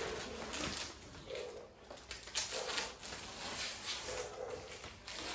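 A pigeon cooing: three short, low coos about a second and a half apart, with a few faint scuffs in between.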